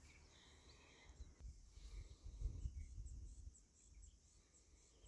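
Faint spring countryside ambience: distant birds chirping now and then, a faint high-pitched ticking at about four to five a second in the second half, and a low rumble in the middle.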